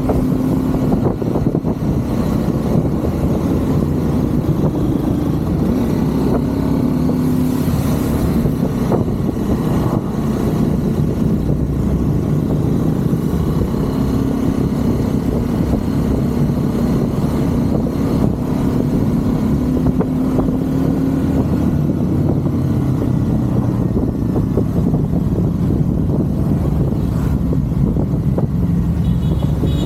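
Triumph Scrambler 400 X's single-cylinder engine running under way, heard from the rider's seat, its note rising and falling several times with the throttle over a steady rush of road and wind noise.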